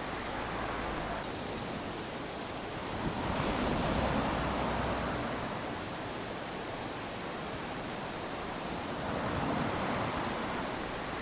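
Small waves lapping onto a sandy shore: a steady wash of surf that swells as a wave runs up about three seconds in and again about nine seconds in.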